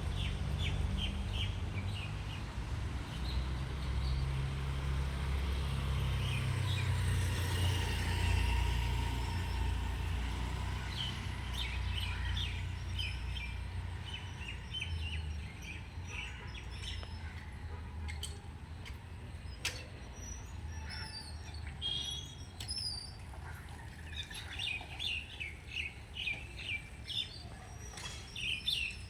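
Small birds chirping in quick series of short notes, busiest near the end, over a low rumble that fades out about halfway through.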